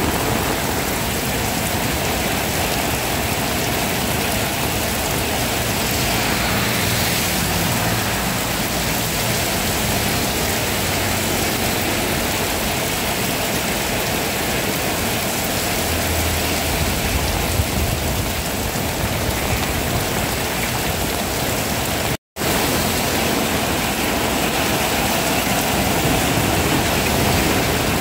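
Heavy rain pouring down in a steady, dense hiss, with a faint low rumble now and then. The sound cuts out for an instant about two-thirds of the way through.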